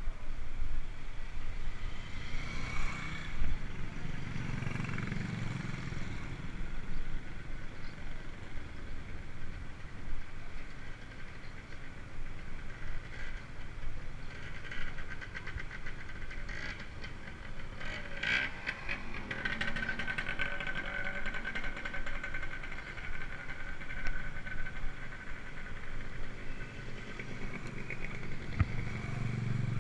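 Road traffic: motor vehicles passing, one swelling about four to six seconds in and another near the end, over steady outdoor road noise.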